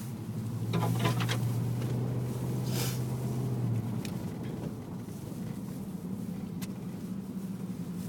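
Car engine and road noise heard from inside the cabin while driving: a steady low engine hum that eases off about four seconds in, with a few scattered clicks and a brief hiss.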